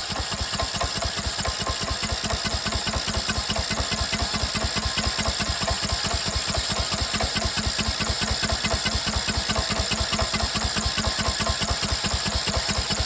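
Newly swapped-in small engine of a Craftsman LT1000 riding mower running steadily with an even, rapid pulse just after being started again.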